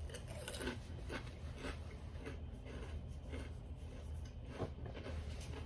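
A person chewing food close to the microphone, with many small irregular clicks over a steady low hum.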